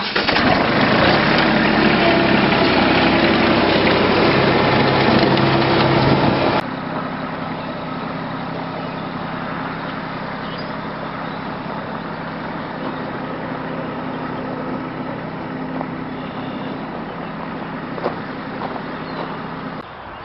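A vehicle engine running steadily, loud at first, then dropping suddenly to a lower, steady level about six and a half seconds in.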